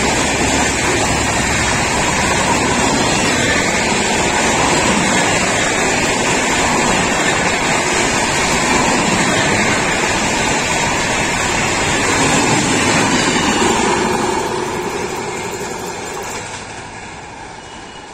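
Passenger coaches of an express train running past at speed, a steady loud rush and rumble of wheels on rails. The sound fades away over the last few seconds as the end of the train goes by.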